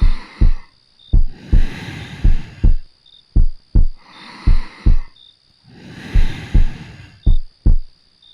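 A heartbeat thumping steadily in lub-dub pairs, about one pair a second, over slow, soft breathing that swells in and out roughly every two seconds.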